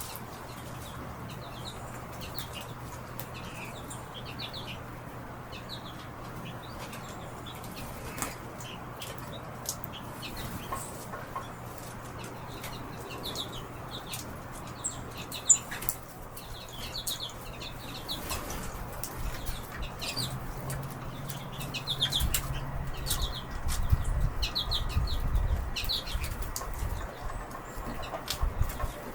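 Many small birds at a feeder chirping in short high notes, with wing flutters and sharp clicks. A low rumble swells in the second half.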